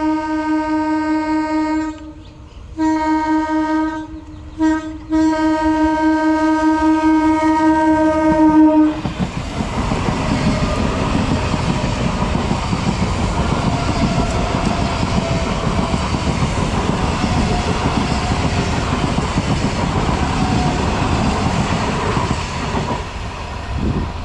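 Medha EMU local train's horn sounding four blasts: a long one, a shorter one, a quick toot, then a long held blast. The train then passes close by at speed, a steady heavy rumble and clatter of wheels and coaches on the track.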